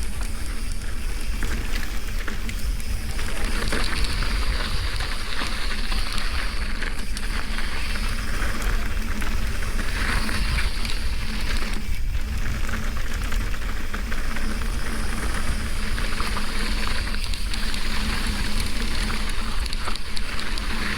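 Mountain bike descending a downhill trail: wind rumbling on the camera microphone over the crunch of tyres on dirt and rock and the rattle of the bike. Steady and loud throughout, with many small knocks from the rough ground.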